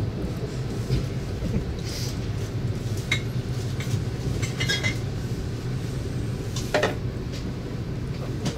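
Passenger train heard from on board: a steady low running rumble, with a few light metallic clinks and rattles scattered through it.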